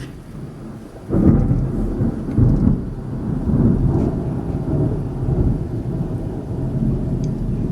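A loud thunderclap breaks suddenly about a second in and rolls on as a long, low rumble that swells and fades several times.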